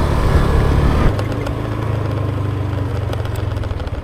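Motorbike engine running, easing off about a second in to a lower, quieter steady note as the bike slows.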